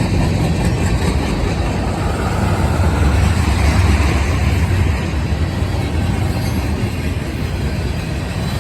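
Freight train of loaded rock cars and side-dump hoppers rolling past, a steady loud rumble of wheels on rail.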